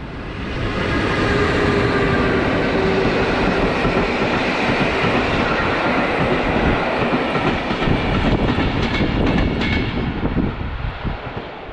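PKP Intercity passenger train passing close by: the steady rumble of the coaches, with wheels clicking over the rail joints. It swells up over the first second or so and fades as the last coach goes by near the end.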